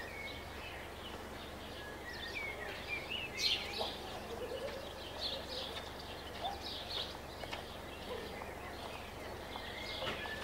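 Birds chirping and calling, with many short chirps and rising and falling whistles, over a faint steady low hum.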